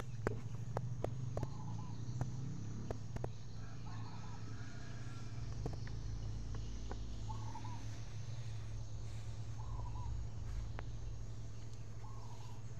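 A bird gives a short call about every two to three seconds over a steady low hum, with a few sharp clicks in the first few seconds.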